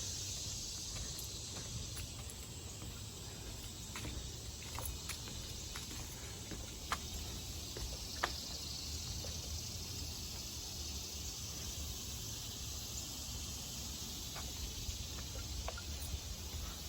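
Steady, high insect chorus, with a low rumble underneath and a few faint scattered clicks.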